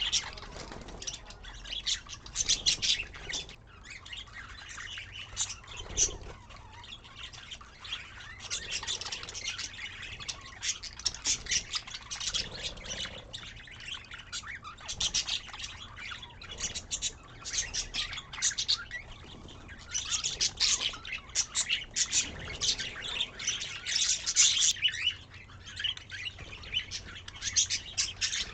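Budgerigars chirping and warbling, a dense run of rapid, high chirps that comes in bursts with short lulls.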